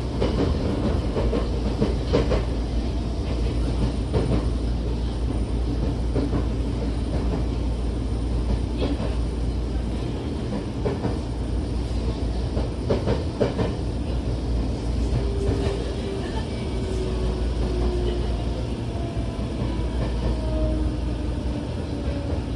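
Inside-the-car running noise of a Tokyo Metro 08 series electric train: a steady low rumble of wheels on rail with scattered clicks over rail joints. In the second half the Mitsubishi IGBT-VVVF inverter and traction motors give thin whines that slowly fall in pitch as the train slows.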